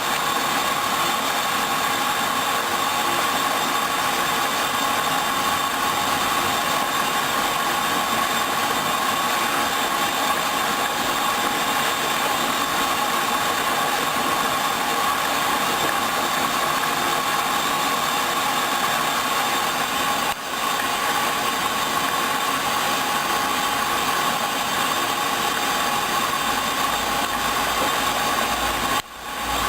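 Hoover DYN 10124 DP front-loading washing machine running steadily during its first rinse, a constant mechanical hum with two brief dips in level, about 20 seconds in and near the end.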